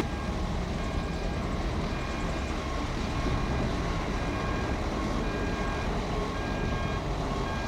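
Earthmoving machine's diesel engine running with a steady low rumble, while a reversing alarm beeps over it in short, evenly spaced tones.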